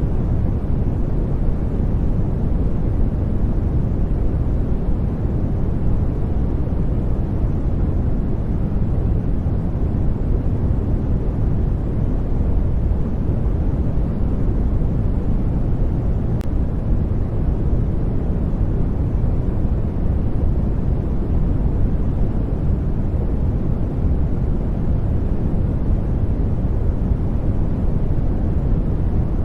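Steady, deep-toned white noise (brown-noise-like rumble) for sleep, even and unchanging.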